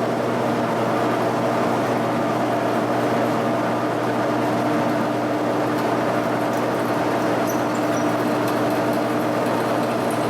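A shop drilling machine running steadily as a 9/16-inch drill bit cuts a pilot hole through a steel tube, with a constant motor hum and gear whine over the cutting noise.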